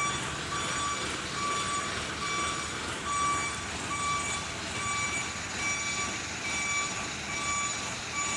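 Vehicle reversing alarm beeping steadily, about three beeps every two seconds, over a background of engine and traffic noise.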